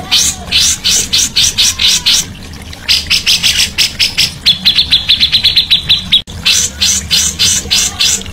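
Songbird singing a fast series of sharp, repeated high notes, about five or six a second. In the middle it breaks into a quicker trill of clearer notes. The sound drops out for an instant about six seconds in, then the notes resume.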